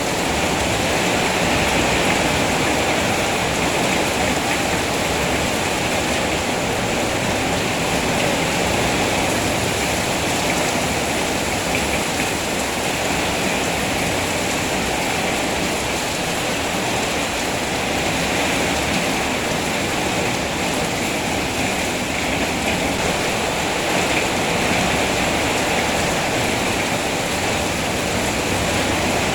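Steady rainfall: an even, unbroken rush of rain with no single drops or thunder standing out.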